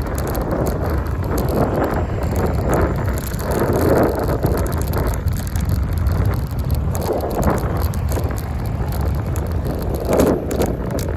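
Ride noise from a phone mounted on a moving bicycle: a steady low rumble and wind on the microphone, with scattered clicks and knocks.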